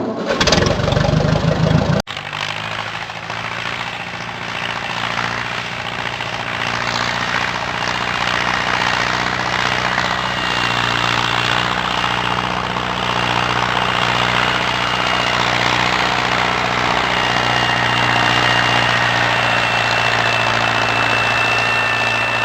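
Tractor engine running steadily with a low, even hum and a faint high whine, after a louder, rougher first two seconds that stop abruptly.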